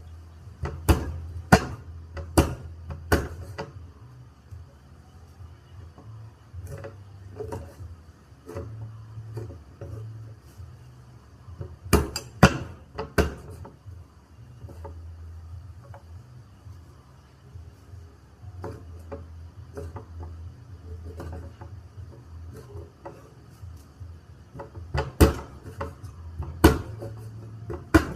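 Sharp knocks of kitchen utensils on wood and cookware, coming in clusters of three or four a few seconds apart, over a low steady hum.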